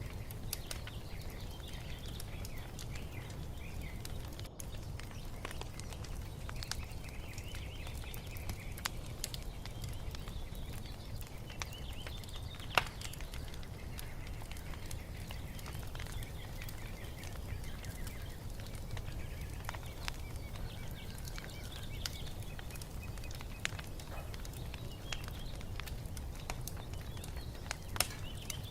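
Wood fire crackling, with scattered sharp pops over a steady low rumble, two louder pops near the middle and near the end. Birds chirp faintly at intervals.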